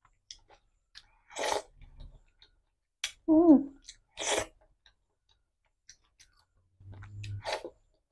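Close-up eating sounds of a person taking soft, wet rice and curry by hand: scattered lip smacks, clicks and wet chewing. About three and a half seconds in there is a short wavering hum, the loudest sound.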